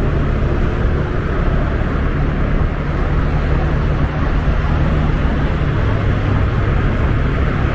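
Honda Scoopy 125 single-cylinder scooter cruising at a steady speed: a constant low engine hum under the rush of wind and road noise.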